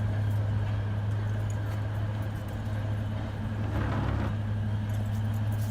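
Diesel locomotive engine running steadily with a low, even hum, with a brief louder rush about four seconds in.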